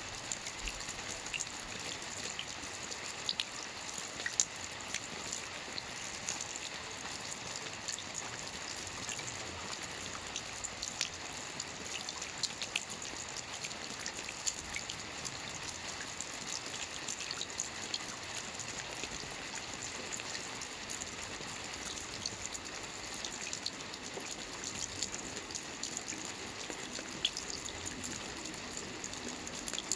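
Soft rain falling on a roof: a steady hiss with many small drops ticking.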